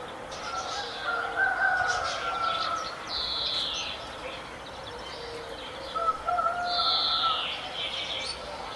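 Birds singing and chirping. One bird's phrase of whistled notes ending in a high falling sweep comes twice, about five seconds apart, among scattered chirps from other birds.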